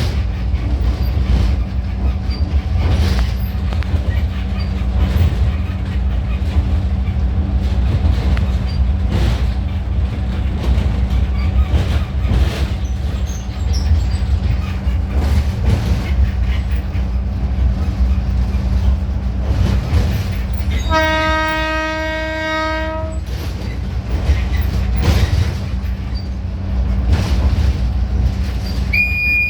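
Train running with a steady low drone and repeated clacks of wheels over rail joints. About two-thirds of the way through, a train horn sounds one long blast of about two seconds.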